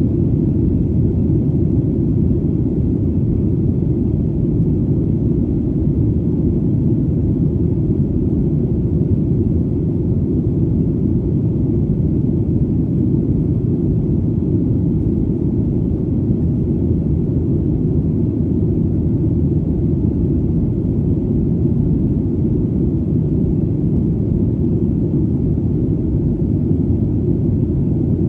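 Steady, deep rumble of an airplane in flight, an even drone with no change in pitch or level.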